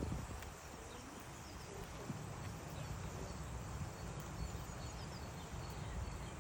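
Outdoor ambience: a few faint, short bird chirps over a steady low wind rumble on the microphone.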